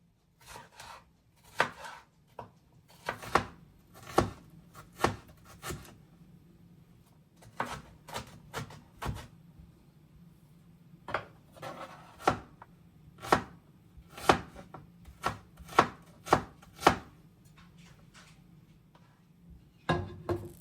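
Knife chopping food on a cutting board: single sharp strokes at an uneven pace, broken by a few short pauses.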